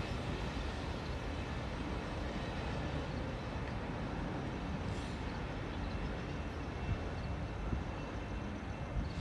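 Steady low rumble of a Union Pacific freight train of autorack cars rolling away down the line, wheels running on the rails.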